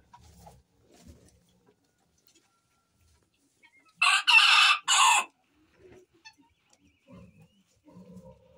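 A rooster crowing once, short and loud, about four seconds in, in three quick parts. Soft low cooing of pigeons comes and goes around it.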